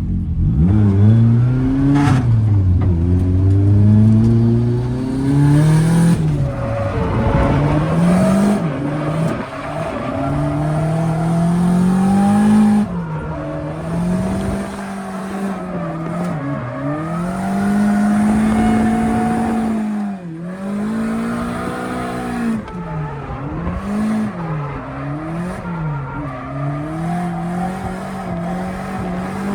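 Drift car engine revving hard, its pitch repeatedly climbing and falling as the throttle is worked through the slides, with tyre squeal, heard from inside the cabin.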